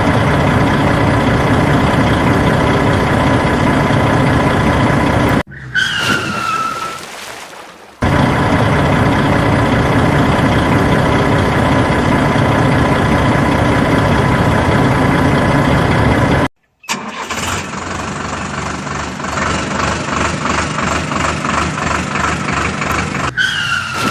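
Vehicle engine sound effects in edited segments: a steady engine running, broken about five seconds in by a short falling whistle-like glide. After a brief gap about two-thirds of the way through, a rougher engine runs with a regular pulsing beat, and another falling glide comes near the end.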